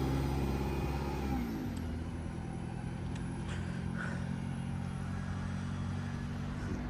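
Diesel bus engine pulling away, its pitch dropping about one and a half seconds in, then a steady low engine hum.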